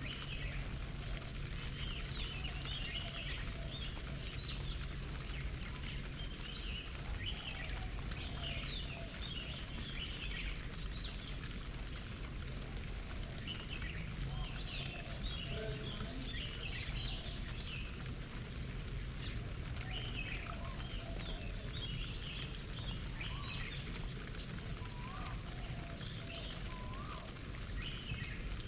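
Small garden birds chirping and twittering in quick, irregular bursts, with a few lower rising notes near the end, over a steady low rumble.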